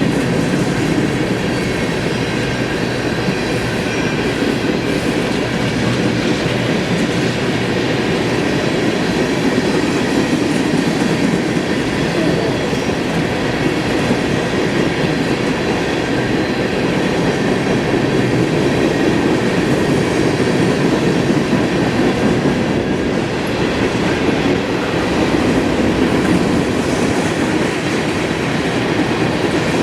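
Norfolk Southern freight train rolling steadily past, with the continuous noise of wheels on rail.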